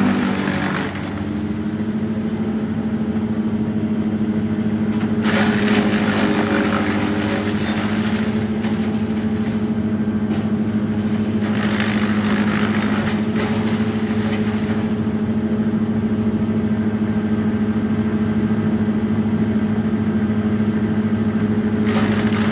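A large engine running steadily at one constant pitch. Three times, a louder rushing, hissing noise rises over it for a few seconds and then falls away.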